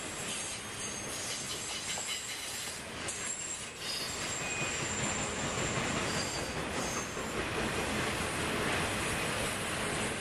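Intermodal freight train of trailers on flatcars rolling past, its wheels running steadily on the rails. High, thin wheel squeals come and go throughout.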